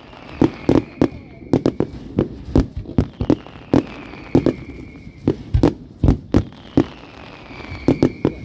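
Fireworks going off in a rapid, irregular string of sharp bangs, several a second. A faint high whistle falls in pitch three times through the bangs.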